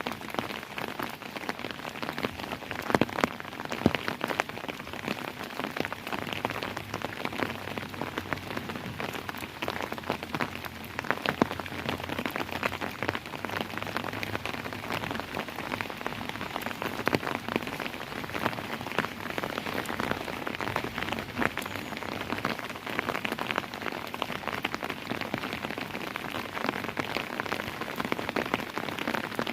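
Steady rainfall, many drops pattering on a hard surface with scattered louder drips.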